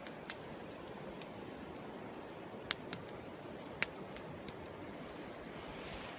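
Wood campfire crackling, with a handful of sharp pops over a steady rush of river water. A few short high chirps sound in between.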